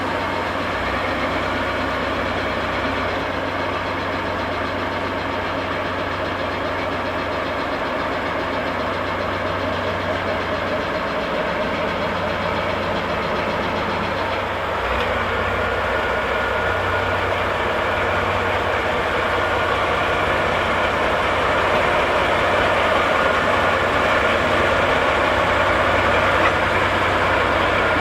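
Diesel locomotive engine idling steadily, getting a little louder from about halfway on.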